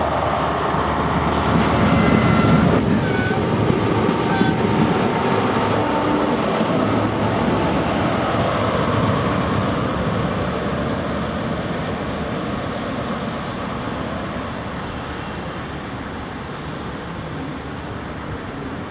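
A First Great Western High Speed Train, a diesel set of Mark 3 coaches between Class 43 power cars, runs close past on the platform road with a loud rumble and a few brief wheel squeaks in the first few seconds. The rumble then fades steadily as the train pulls away.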